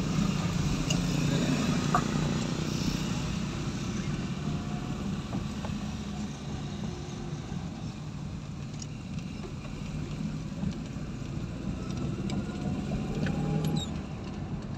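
Toyota Corolla EE100's carbureted 2E four-cylinder engine and road noise while the car is being driven, heard from inside the car. The low steady drone swells in the first few seconds and again near the end.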